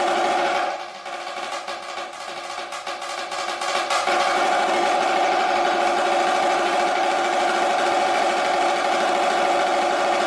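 Solo snare drum playing a continuous roll. About a second in it drops suddenly to a soft passage, then comes back loud with an accent at about four seconds and carries on as a loud roll.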